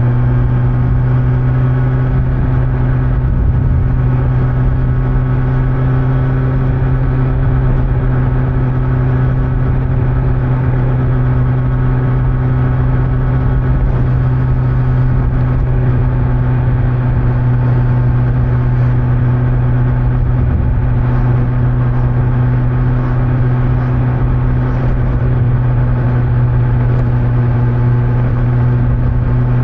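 Kawasaki Z900's inline-four engine with stock exhaust, running at a steady cruising speed with hardly any change in pitch, over a low rush of wind and road noise.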